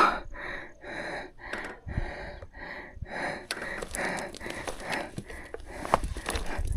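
A person breathing hard in quick, even puffs, about two a second, as after physical exertion.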